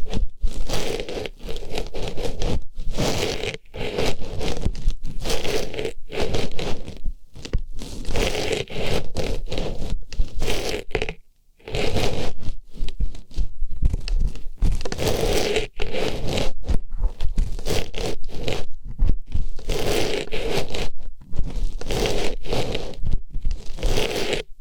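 Artificial rose stuffed into an ear and rubbed around for ear-cleaning ASMR, heard close up as dense, stroke-after-stroke scraping and rustling, with a short break about eleven seconds in.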